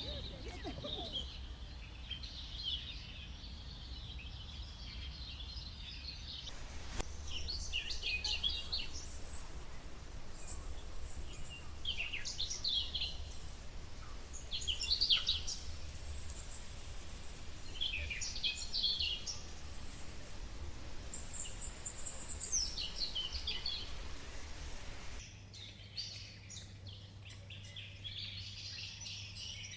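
Birds calling: short high chirps and quick falling trills every second or two over a steady low hum. The background changes abruptly twice, about six seconds in and near the end.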